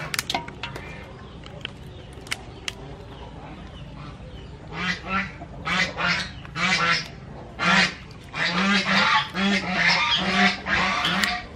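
A few sharp snips in the first few seconds, kitchen scissors cutting raw blue crab. From about halfway on, a run of loud, repeated honking bird calls, roughly two a second.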